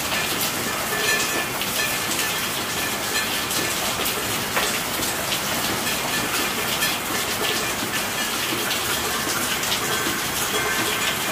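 Steady heavy rain, a dense even hiss of falling water with scattered drop ticks.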